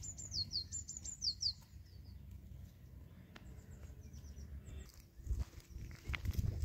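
A small bird sings a run of high, quickly falling chirps in the first second and a half, followed by fainter chirps. Footsteps on stony ground come in toward the end.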